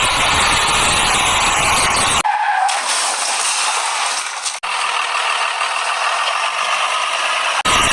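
Truck-type vehicle noise, likely dubbed sound effects. About two seconds in it switches abruptly to a thinner hiss with no low end, with a brief dropout midway, and the fuller noise returns just before the end.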